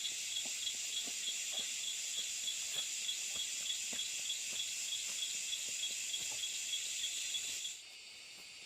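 Insects chirring: a steady high-pitched buzz with a rapid, even pulse, cutting off abruptly near the end. Faint soft knocks sound underneath.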